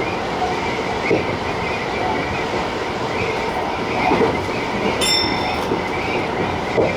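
Tobu TJ Liner electric train running at speed: steady rolling rumble with a faint high whine and a few thuds as the wheels cross rail joints. About five seconds in there is a brief high-pitched ring.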